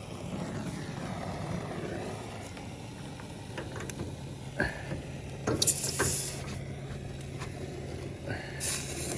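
Gas brazing torch flame running steadily on air-conditioner copper pipe, with a few sharp clicks and two short bright hisses, one about six seconds in and one near the end.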